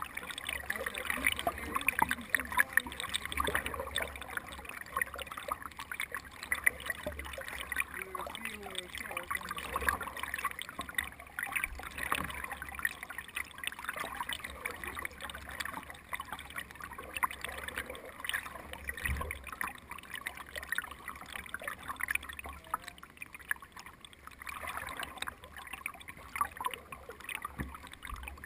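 Water splashing and trickling, a steady crackle of many small irregular splashes.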